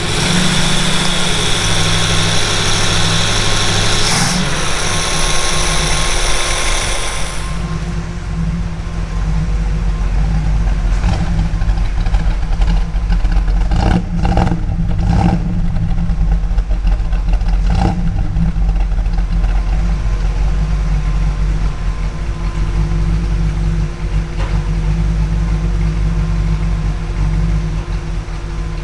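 Freshly rebuilt Chrysler 340 small-block V8 running after its first start. It is heard close at the engine with a loud hiss and whir for about the first seven seconds, then from the tailpipe as a steady low exhaust rumble, with a few short louder pulses about halfway through.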